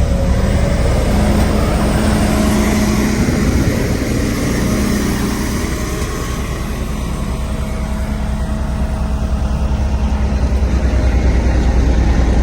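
Heavy diesel engine of a Sakai road roller running steadily, a deep engine note that eases off a little midway and builds again near the end.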